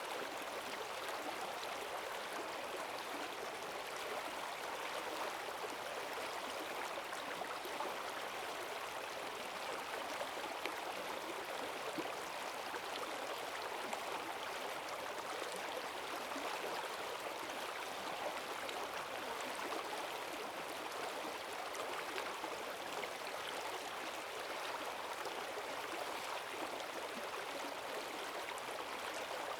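Forest stream swollen with rainwater, rushing and gurgling steadily over its bed with strong currents.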